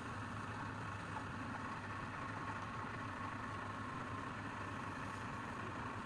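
A machine motor running steadily, giving an even hum with a constant low tone and a higher whine.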